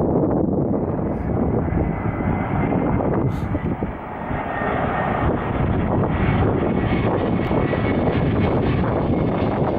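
Airliner's engines on landing approach: a steady rumble with a faint whine, growing brighter toward the end.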